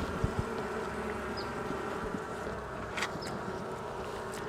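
Honeybee colony buzzing steadily in an opened hive, with a few light knocks and a click as the hive frames are set back in place.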